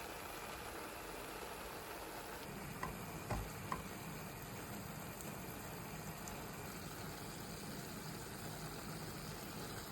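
Green beans stewing with tomato in a pot, a steady faint sizzle. Three short light clicks come close together about three seconds in.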